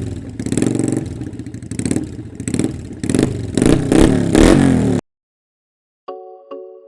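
Motorcycle engine revved in repeated surges, its pitch rising and falling, cutting off abruptly about five seconds in. Two short chime notes follow near the end.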